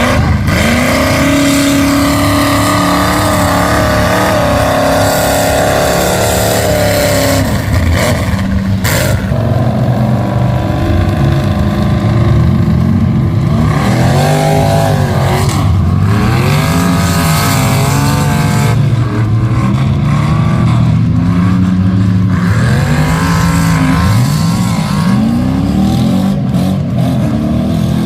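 Mud truck engine revving hard over and over, its pitch climbing and falling with each throttle stab, with short breaks about eight and nine seconds in.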